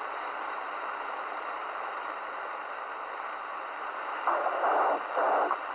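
Steady receiver hiss from a Midland Alan 8001 CB radio's speaker while it waits between stations, with two short louder bursts of incoming signal near the end.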